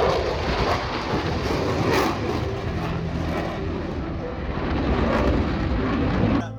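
Loud, steady aircraft engine noise, a dense rushing drone that cuts off abruptly near the end.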